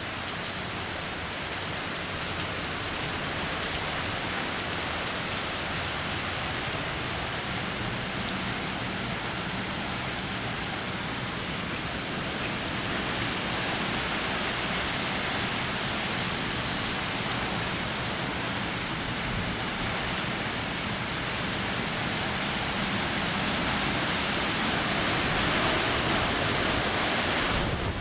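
Hurricane-force wind and driving rain: a steady rushing noise that grows louder over the last few seconds.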